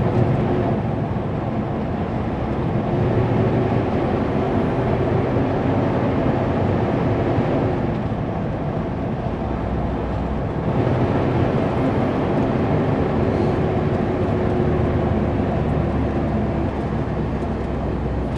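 Kenworth W900L semi truck heard from inside the cab while driving: a steady engine drone with road noise, the engine note drifting slightly up and down.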